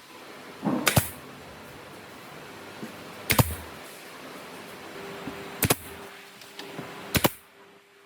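Sharp knocks on wood in woodworking: four loud strikes about two seconds apart, several landing as quick doubles, with a few lighter taps between.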